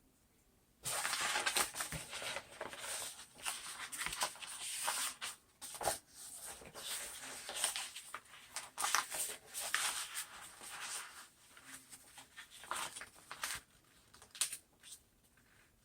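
Sheets of contact paper being handled and shuffled, crinkling and rustling irregularly with small clicks, starting about a second in and tapering off near the end.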